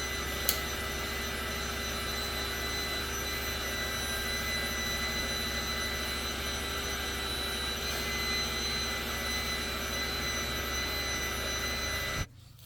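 Small heat gun of the kind made for heat-shrink tubing, blowing steadily with a fan-and-motor hum, then switched off near the end.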